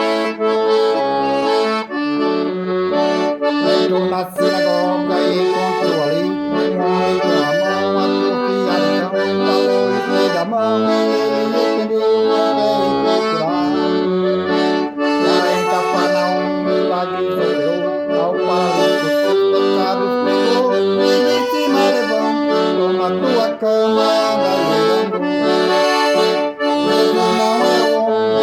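Accordion playing an instrumental passage: a melody over held chords, with steady loudness throughout.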